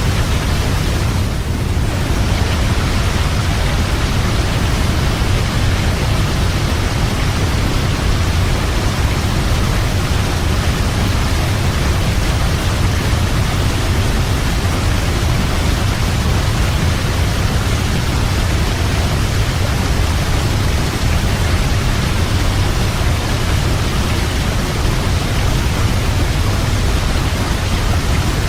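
Waterfall: a steady, loud rush of falling water, heaviest in the low rumble, with no change in its flow.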